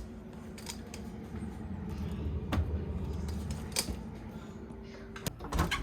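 Steady low rumble of a car's cabin on the move, with a few light clicks.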